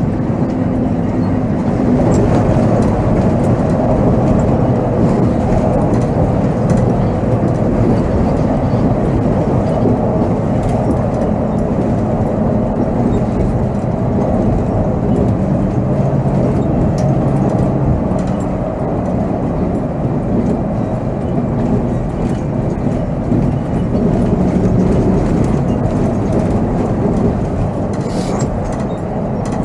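Volvo B7R coach on the move, heard from the driver's seat: its diesel engine running over steady road and cabin rumble, the engine note shifting a little in pitch as the coach drives along.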